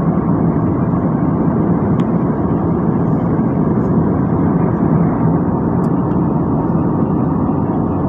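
Steady rumble of engine and airflow noise heard inside an airliner's passenger cabin, with a faint tick about two seconds in.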